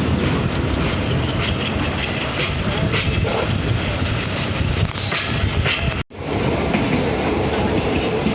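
Train running along the track: a steady rumble with clicks from the wheels over the rail joints. The sound drops out for an instant about six seconds in.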